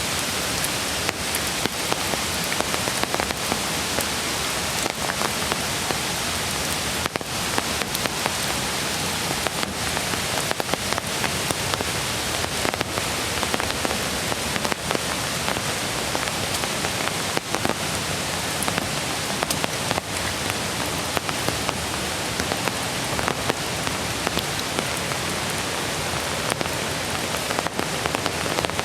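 Steady rain falling: an even rushing of water dotted with many small drop ticks.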